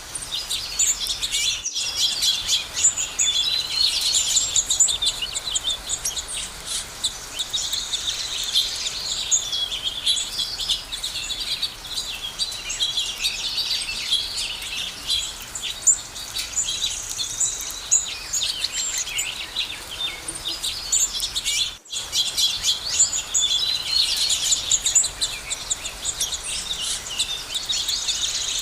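Many songbirds singing and chirping at once, a dense chorus of overlapping high chirps and trills, with a brief break about 22 seconds in.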